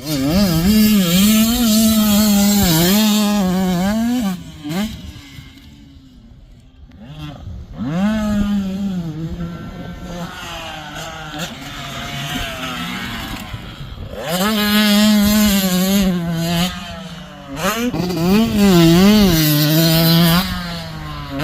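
85cc two-stroke dirt bike engine revving hard and backing off again and again as it is ridden, its pitch rising and falling. It eases off for a couple of seconds about a third of the way in, then builds back up, loudest near the end.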